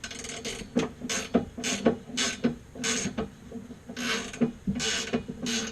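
Hand ratchet wrench worked back and forth in about ten short strokes, its pawl clicking on each swing as a bolt is loosened.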